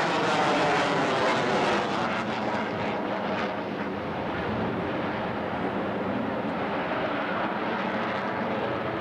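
Airplane flying past, its engine noise sliding down in pitch as it passes. It is loudest in the first two seconds and then fades slightly as it moves away.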